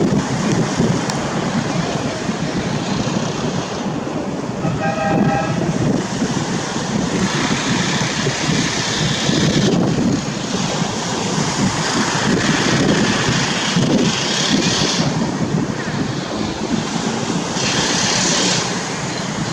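Aircraft engines roaring past in a flying display: a loud, steady rushing rumble with wind on the microphone, swelling and easing several times. A short horn-like tone sounds about five seconds in.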